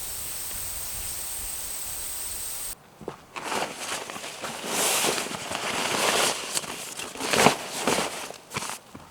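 Steady hiss with a thin high whine, then after an abrupt cut about three seconds in, irregular crunching and rustling noises.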